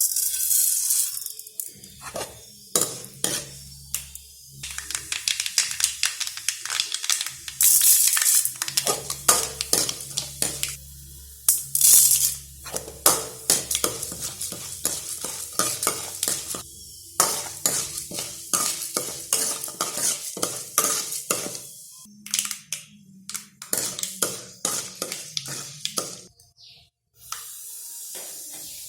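Metal spoon and steel cooking vessels clinking, knocking and scraping in quick, irregular strikes as ingredients are handled and stirred.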